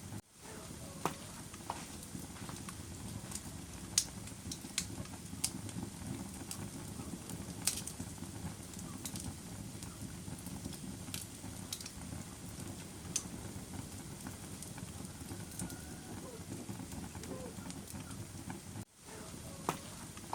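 Wood fire burning in a fireplace: a steady low rumble of flames with scattered sharp crackles and pops. The sound cuts out for a moment just after the start and again near the end.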